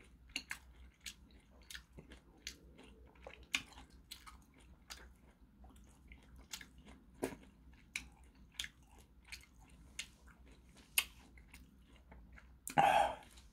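Close mouth sounds of a man chewing food, wet clicks and smacks a few times a second. A louder sound lasting about half a second comes near the end.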